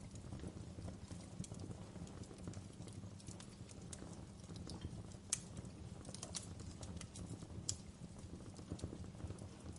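Wood fire burning in a fireplace, crackling with many irregular sharp pops over a steady low rumble of flame; two pops, about five and eight seconds in, stand out loudest.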